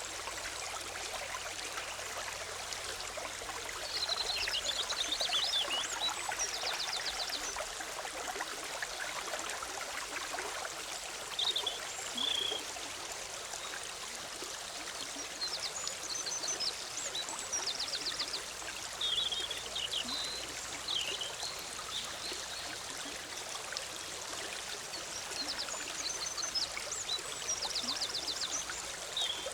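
Forest stream bubbling and rushing steadily over rocks. Songbirds sing short chirping and trilling phrases over it every few seconds.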